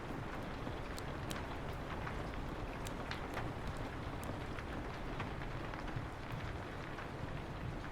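Steady rain falling on a window, with a low rumble underneath and scattered sharp crackles and pops from a wood fire in a fireplace.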